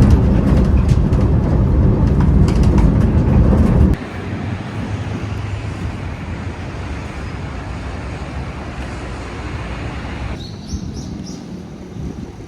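Loud low rumble of a moving vehicle. It cuts off abruptly about four seconds in and gives way to a quieter steady rumble. Near the end another cut brings quiet ambience with a few short high chirps.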